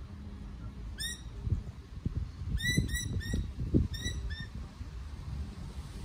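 A bird calling: about seven short, clear chirps, three of them in quick succession near the middle, over a low outdoor rumble.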